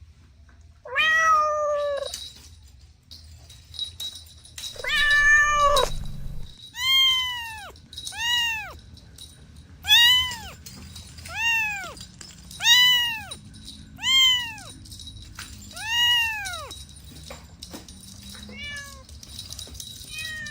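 Domestic cats meowing: two longer, lower meows in the first few seconds, then a run of about eight short, high meows that rise and fall in pitch, roughly one every second and a half, growing fainter near the end.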